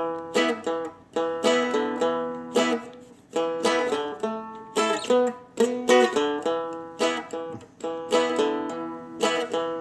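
Seagull Merlin (a four-string fretted dulcimer) strummed in a blues rhythm: repeated chord strums that ring and decay, with hammer-ons on the top string.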